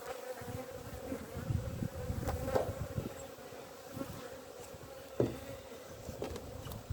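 Honeybees buzzing around an open hive in a steady hum, stirred up by the hive inspection, with a few short knocks from the wooden hive lid being handled and set back on.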